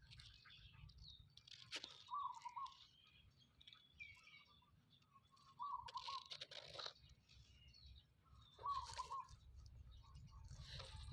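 Faint birdsong: scattered chirps, with one short wavering call repeated about every three seconds.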